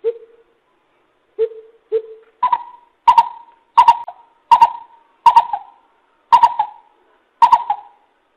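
A coucal calling: three deep hoots, then a run of about eight higher hoots, evenly spaced at roughly one and a half a second.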